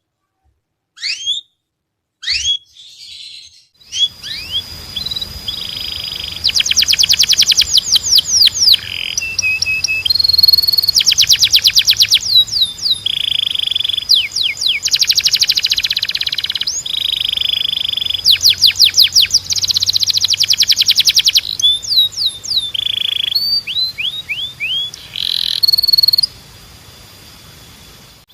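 Spanish Timbrado canary singing. A few scattered chirps come first. From about four seconds in it sings continuously in fast trills and rapid runs of rising and falling notes, with brief pauses between phrases, and the song stops a couple of seconds before the end.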